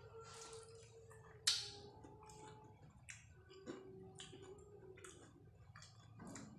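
Chewing crispy fried chicken, the crust crunching in sharp clicks every second or so, the loudest about a second and a half in.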